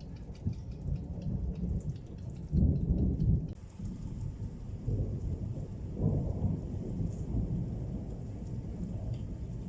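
Thunder rolling and rumbling, loudest about three seconds in and swelling again about six seconds in, with rain falling.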